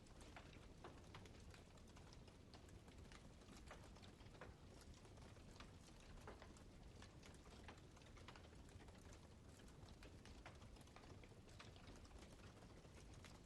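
Campfire crackling faintly, with irregular small pops and snaps of burning wood over a low steady hiss.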